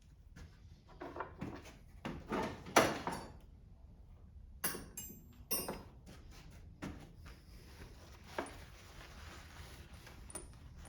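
Metal hand tools and engine parts being handled: a series of knocks and clicks, a louder scraping stretch about two to three seconds in, and a few bright ringing metal clinks around five seconds in.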